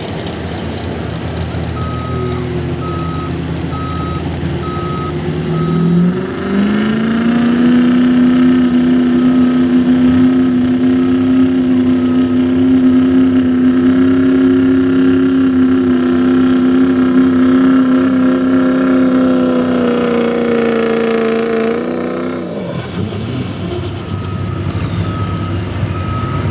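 A 4x4 diesel pickup's engine revs up about six seconds in and holds high revs under load for about fourteen seconds, pulling the sled, then drops off. A backup alarm beeps steadily before the run and again near the end.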